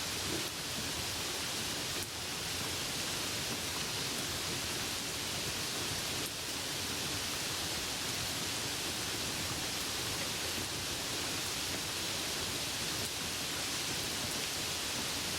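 Steady rainfall, an even hiss of falling rain.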